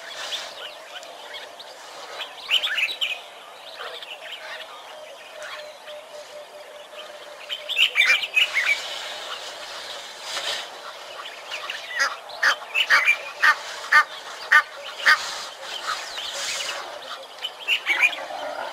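Wild birds calling: a few scattered calls, then a run of sharp calls repeated about twice a second for a few seconds.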